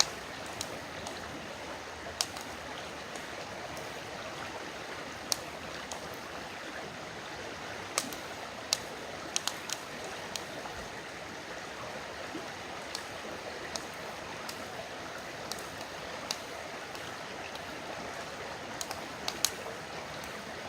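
A river flowing steadily, with the sharp pops and crackles of a wood campfire breaking in now and then.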